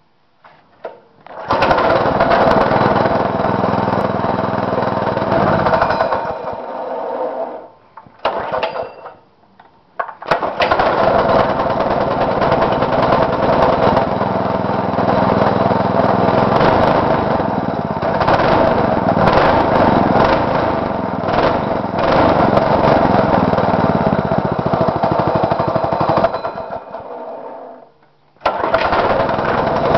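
Go-kart's 6.5 hp Powerhorse single-cylinder small engine running loud and steady, its pitch wavering. The sound falls away about six seconds in, with a short blip, then comes back and runs until dropping out briefly near the end.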